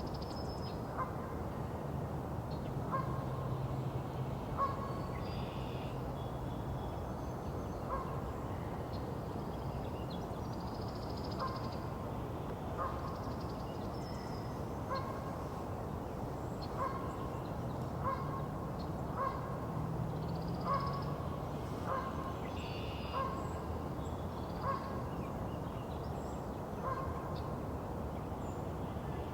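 Outdoor spring bird chorus: one bird gives short calls over and over, roughly every second or two, while smaller songbirds sing higher and fainter between them, over a steady low rumble.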